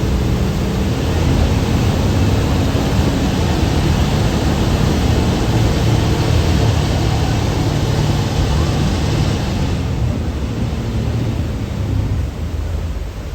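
Thames Clipper river boat under way: a steady low engine hum under a loud rushing hiss, which eases about ten seconds in.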